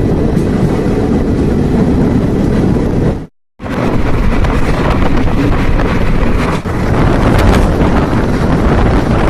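Loud rumble of a moving train with wind buffeting the microphone. It cuts out for a moment about three seconds in, then carries on.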